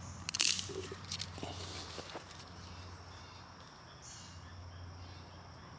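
Footsteps crunching on the ground outdoors, loudest in the first second, then quieter, with a short high insect buzz about four seconds in.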